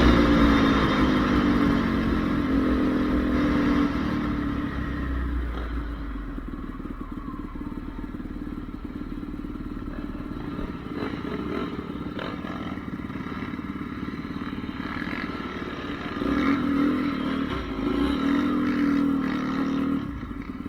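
Honda CRF450R motocross bike's single-cylinder four-stroke engine decelerating, its note falling in pitch and fading as it moves away to a quieter distant drone. About sixteen seconds in, an engine grows louder again, holding a fairly steady note.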